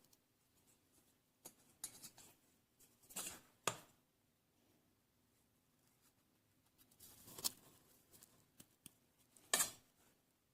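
Quiet handling noises: a few scattered short scrapes and clicks, the loudest near the end, over faint room tone.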